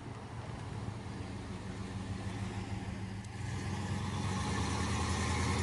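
A car engine running steadily, getting louder from about halfway through.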